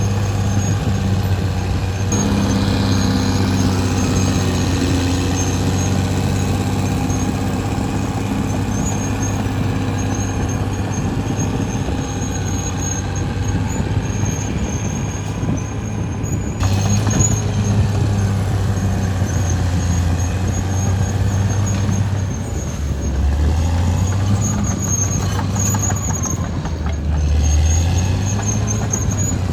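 Caterpillar D6R XL bulldozer's diesel engine running steadily under working load, its pitch dipping twice in the last third as it lugs. A thin high-pitched squeal, typical of dozer tracks, comes and goes over it.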